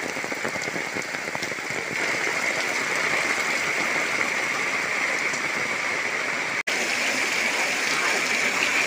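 Heavy rain falling steadily, with a sudden brief break about two-thirds of the way through.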